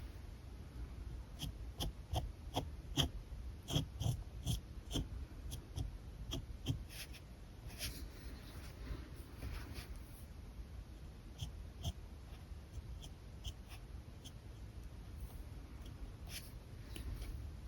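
Alcohol marker tips rubbing and tapping on paper in many short, quick strokes, busiest in the first half.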